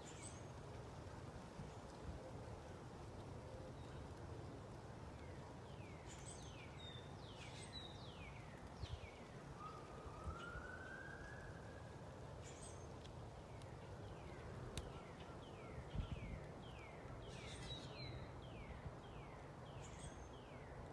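Wild birds singing: runs of quick falling whistled notes, clustered a few seconds in and again in the last third, with a single longer rising note about halfway through, over a faint low rumble.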